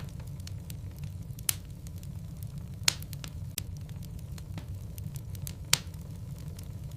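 Burning wood logs in a fireplace: a steady low rumble of the flames with scattered crackles and pops, three sharper pops standing out about a second and a half, three seconds and six seconds in.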